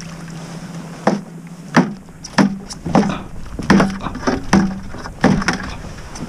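A series of sharp, hard knocks and clunks, roughly one or two a second, from crabbing gear being handled aboard a kayak.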